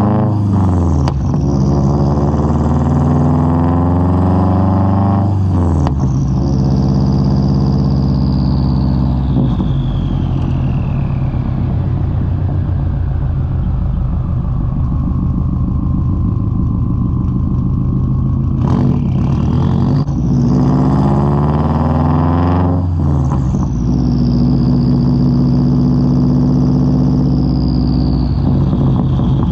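2003 Subaru WRX's turbocharged flat-four through a Tomei straight-pipe exhaust, heard from outside the car while it is driven. The engine climbs in revs, drops sharply at an upshift about five seconds in, then its pitch sinks slowly as the car eases off. It pulls up again from about nineteen seconds, drops at another upshift a few seconds later, and settles to a steady cruise.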